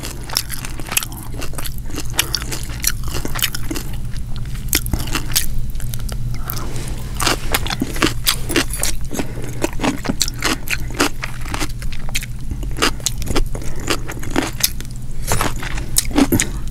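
Close-miked chewing of crunchy food, a fresh cucumber slice and fried fish skin, with many irregular crisp crunches and wet mouth clicks.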